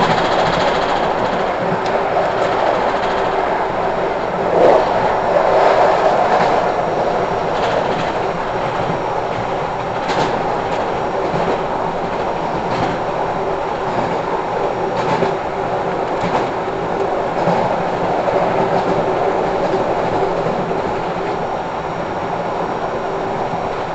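Train running at speed, heard from on board: a steady rumble of wheels on the track, with clicks from the rail joints every second or two.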